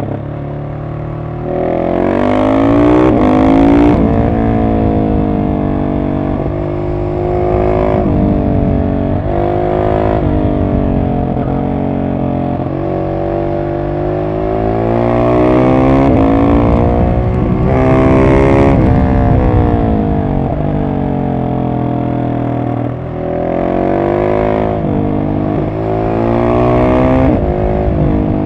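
Husqvarna 701 supermoto's single-cylinder engine through a decatted Arrow exhaust, its revs climbing and dropping again and again as the throttle is opened and closed, about half a dozen rises in all.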